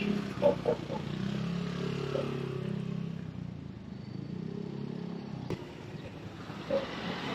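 Street traffic: a small motor vehicle's engine running past, its note swelling over the first couple of seconds and fading away after about five seconds.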